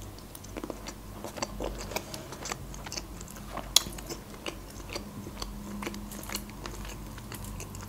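Close-miked chewing of black grapes: irregular small mouth clicks over a faint steady hum.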